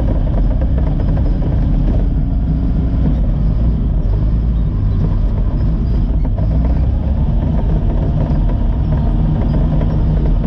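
Caterpillar D5 wide-track bulldozer's diesel engine running steadily and loud as the machine works.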